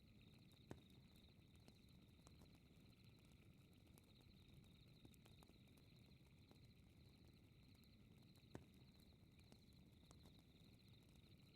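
Faint fireplace crackle, scattered small pops with two sharper pops, one about a second in and one about two-thirds through, over a steady, rapidly pulsing high chirping of night insects such as crickets.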